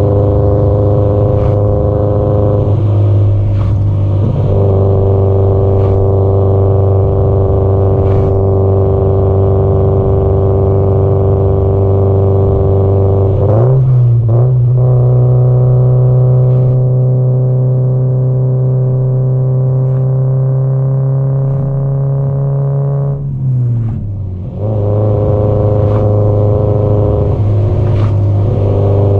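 Exhaust and engine note of a Subaru Impreza WRX STI (GDB-E), a turbocharged flat-four through an aftermarket muffler, droning steadily at cruising revs. About halfway through the revs step up to a higher steady note, and about ten seconds later they fall back with a brief dip in loudness.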